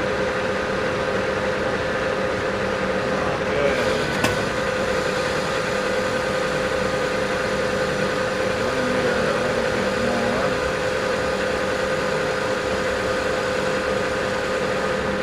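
South Bend 14 1/2 metal lathe running with a steady hum, with a single sharp click about four seconds in.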